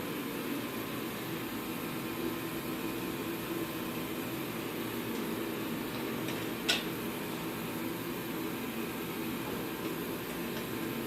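A steady machine hum with a faint steady tone, and a single sharp click a little past halfway.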